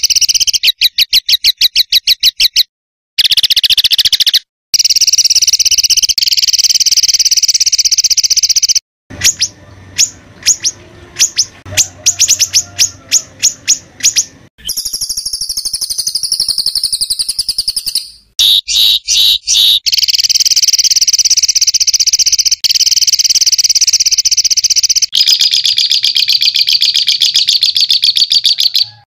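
Songbird tutor song: loud, harsh, rapid-fire runs of repeated notes, the 'tembakan kasar' type of phrase used to train cage birds. The song stops and restarts abruptly several times at edit cuts, with a different wavering, warbled phrase about halfway through.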